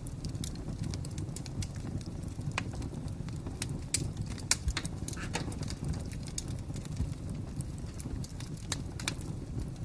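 Fire crackling: a steady low rush of burning with irregular sharp pops and snaps scattered through, a few louder ones near the middle.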